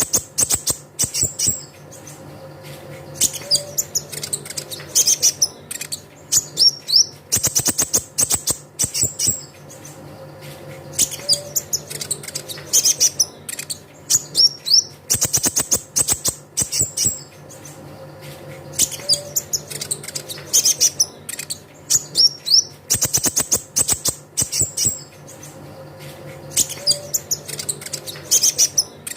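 Kolibri ninja (konin) sunbird song: clusters of rapid, sharp high chirps and short rising trills, the same phrase sequence recurring about every eight seconds as a looped lure call. A low steady hum runs underneath.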